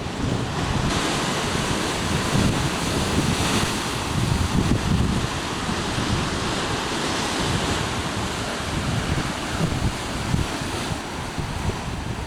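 Waves washing, with wind gusting and buffeting the microphone.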